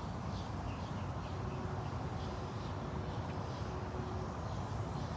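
Steady outdoor background noise with a low rumble and a series of faint, high, repeated chirps.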